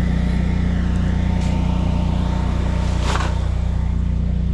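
Generator engine running steadily with a constant low hum. A short burst of noise about three seconds in.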